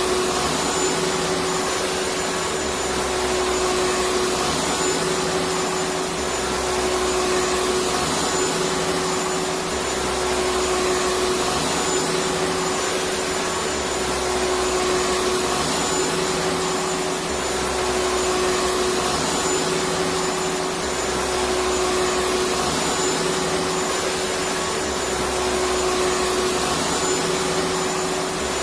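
Electric vacuum cleaner running steadily, a continuous rushing whoosh with a steady hum. A slight swell in the low end repeats about every three and a half seconds.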